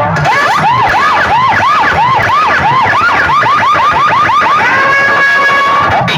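Siren sound effect played loud through a DJ sound-box system: a yelping wail repeating about three times a second, speeding up, then holding one steady tone for over a second near the end.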